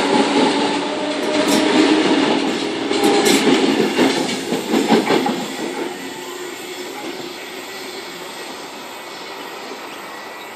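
Sydney Trains Tangara electric train passing through the station, with running noise and a few sharp clicks of wheels over rail joints, fading away after about six seconds.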